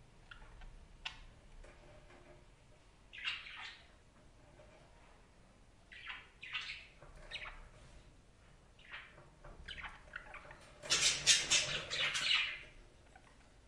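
Budgerigars chirping and squawking in short, scattered calls, with a louder run of harsh squawks near the end.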